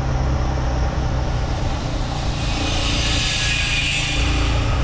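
Motorcycle engine running steadily as the bike is ridden along a road. In the middle a hissing rush swells and fades.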